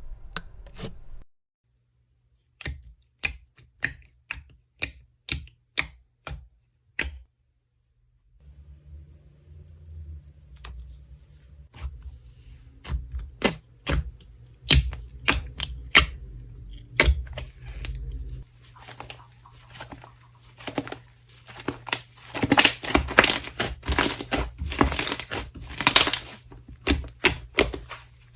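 Slime being pressed and poked by hand close to the microphone, making sharp clicks and crackles: first single clicks about twice a second, then denser, louder crackling toward the end, with two brief silent gaps between clips.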